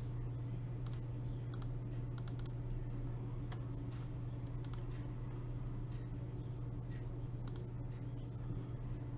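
Computer keyboard keys clicking, scattered singly and a few at a time, over a steady low hum.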